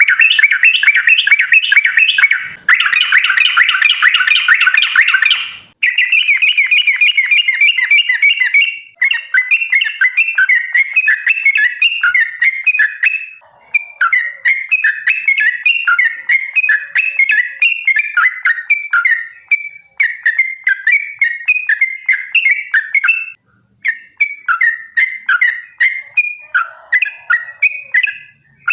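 Yellow-vented bulbul (trucukan) singing a long, fast run of chattering notes, in phrases of a few seconds each with short breaks between them.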